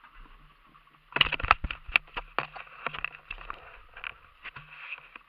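Rapid, irregular clicks and knocks starting about a second in and thinning out toward the end, over a faint steady hum.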